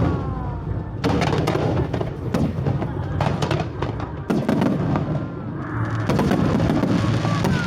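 Aerial fireworks bursting overhead: a run of loud, sharp bangs with crackling between them.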